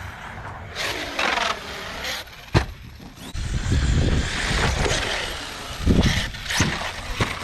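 Arrma Kraton 6S RC monster truck with a Hobbystar 1730kv brushless motor driving: the motor whine falls and rises in pitch, a sharp knock comes about two and a half seconds in, then the tyres scrabble over the ground with a few more knocks near the end.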